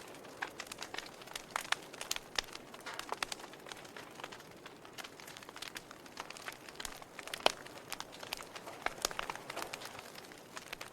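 Wood fire in a fireplace crackling, with irregular sharp pops over a faint hiss and one louder pop about seven and a half seconds in.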